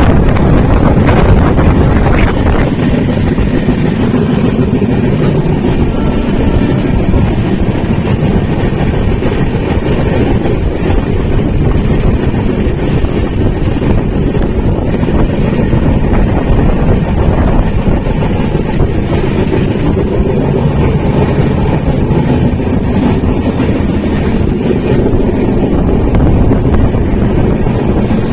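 Passenger train running along the track, heard from on board: a loud, steady rumble of the wheels and carriage.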